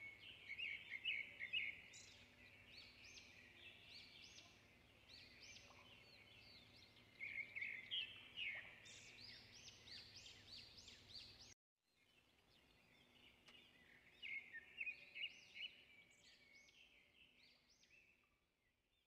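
Birds chirping and calling, in quick runs of short high notes. The sound cuts out abruptly a little past halfway, then the chirping resumes and fades near the end.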